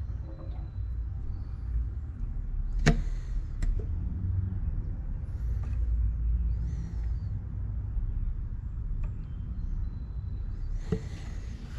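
Low steady rumble with a sharp click about three seconds in and a lighter one just after, and faint bird chirps.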